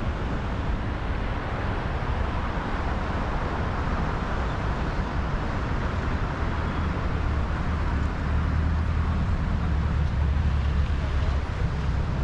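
Steady rush of wind on the microphone of a moving bicycle's camera, with a low rumble of road noise that grows a little stronger about eight seconds in.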